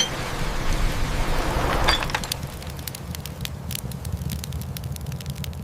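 Fireplace fire crackling: scattered sharp pops and snaps over a low steady rumble, after a rushing swell of noise over the first two seconds.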